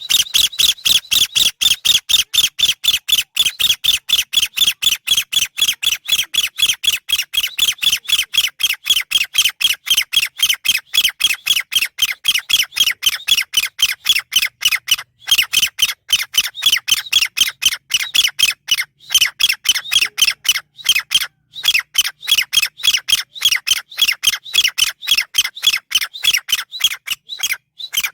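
Chinese francolin calls: short, harsh, high notes repeated fast and evenly, about four a second, without a break.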